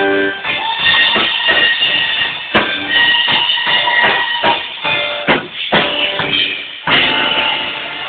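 Live soul/R&B band playing, with Hammond-style organ holding chords over a drum kit, punctuated by hard accented hits a few times.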